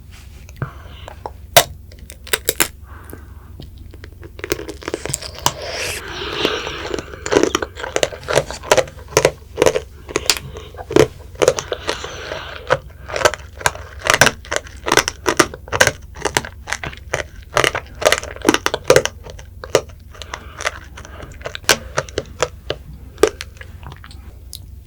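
Strawberry tanghulu being bitten and chewed: the hard candied-sugar shell cracks and crunches in many sharp snaps. The snaps come a few at a time at first, then in quick runs through the middle, and thin out near the end.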